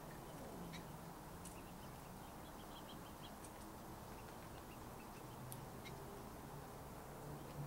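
Faint small-bird chirps, a quick run of short high notes about two to three seconds in, over a low steady background hum with scattered tiny clicks.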